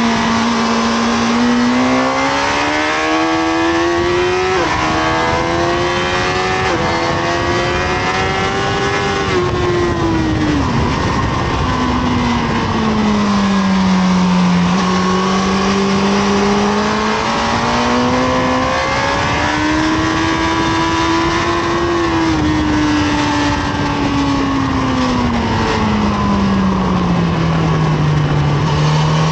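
Honda CBR1000RR SC57 Fireblade's inline-four engine at full load on track: its pitch climbs steadily with small sudden drops at upshifts, then falls away under braking and downshifts before pulling up again, several times over. Heavy wind rush runs under it throughout.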